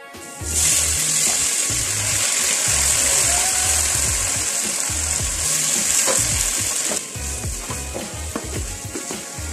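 Onions and chopped tomatoes frying in hot oil in an aluminium pot: a loud sizzle sets in about half a second in and drops back about seven seconds in, followed by a wooden spoon stirring and scraping in the pot. Background music with a steady beat plays underneath.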